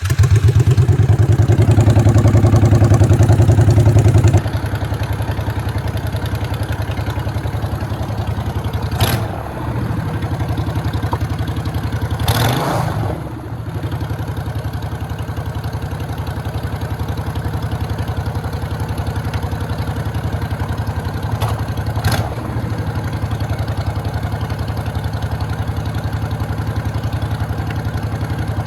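Motorcycle engine just after starting, running loud for about four seconds, then settling into a steady, lower running note as the bike rides on, with three brief whooshes along the way.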